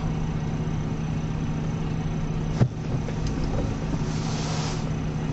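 Steady low hum of a car engine idling, heard from inside the cabin, with a single sharp thump about two and a half seconds in.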